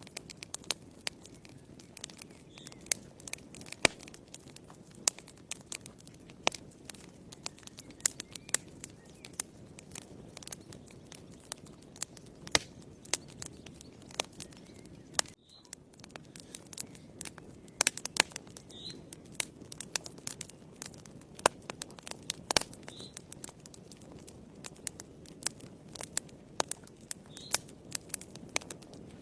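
Wood fire burning in a fireplace: irregular sharp crackles and pops over a low, steady rush of flame.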